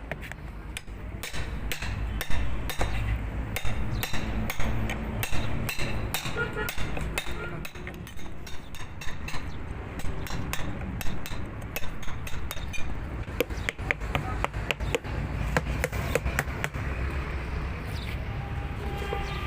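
Hammer strikes: many quick, irregular taps, over a steady low background hum.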